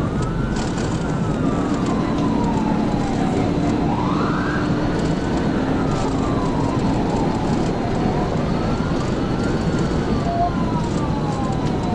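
Police cruiser siren wailing in slow rising and falling sweeps, over steady engine and road noise at pursuit speed.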